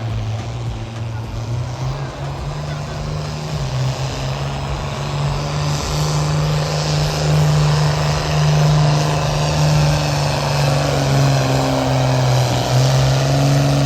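Pulling vehicle's engine running hard under full load as it drags the sled down the track, a steady loud drone whose pitch steps up about two seconds in and again about six seconds in, then drops back near the end.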